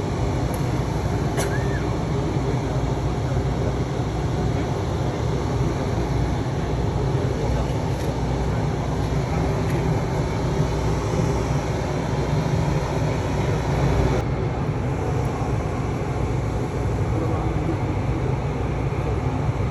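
Steady low rumble of a vehicle driving, engine and road noise without a break.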